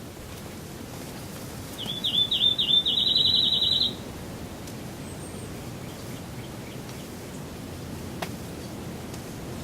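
A small songbird sings one short song about two seconds in: a few separate slurred notes that speed up into a rapid, even trill lasting about two seconds.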